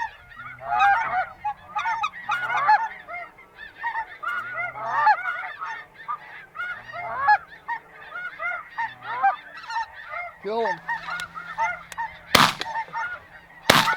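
Many geese honking and calling in a dense overlapping chorus, then two shotgun shots about a second and a half apart near the end.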